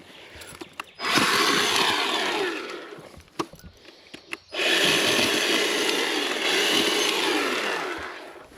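Chainsaw cutting wood in two runs, about two and three and a half seconds long, each tailing off at the end. Between the runs the saw drops back and there are a couple of sharp knocks.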